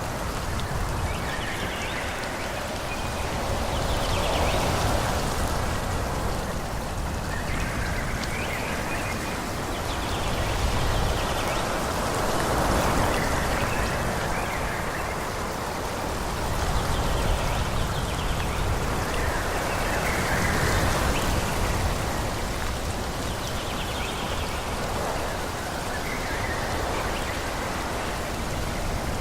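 Wind blowing through forest trees, a steady rushing hiss that swells in slow gusts every several seconds and eases off again.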